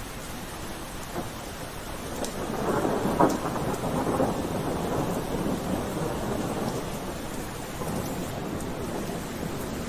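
Steady rain falling, with a roll of thunder that builds about two and a half seconds in, cracks at its loudest around three seconds, then rumbles away slowly over several seconds.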